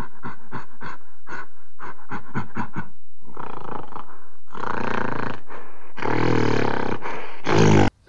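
Gorilla calls: a quick run of short hoots, about four a second, for some three seconds, then a string of long, loud roars that stop abruptly near the end.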